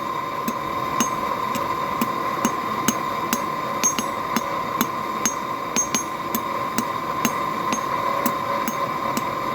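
Hand hammer striking hot mild steel on an anvil at a steady rhythm of about two blows a second, forging out a square tip for a scroll, over a steady hum.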